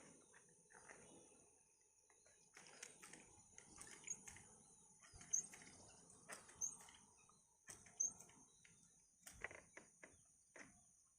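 Faint rural ambience: a steady high-pitched insect drone, with four short high chirps about a second and a half apart and scattered light clicks and rustles.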